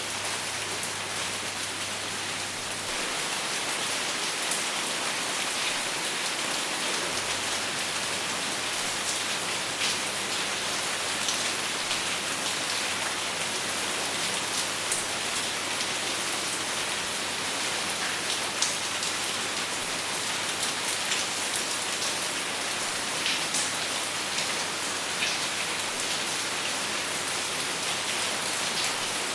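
Steady rain falling, with many sharp individual drop hits over an even hiss and no thunder.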